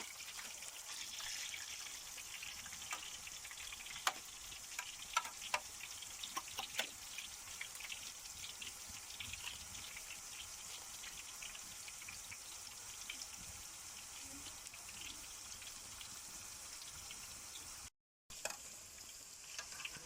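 Eggplant and zucchini slices frying in hot oil in a pan over a wood fire: a steady sizzle with scattered sharp pops and crackles, thickest between about four and seven seconds in. It breaks off for a moment near the end.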